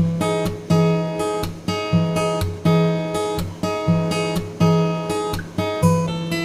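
Background music: acoustic guitar strumming chords in a steady rhythm, starting abruptly at the beginning.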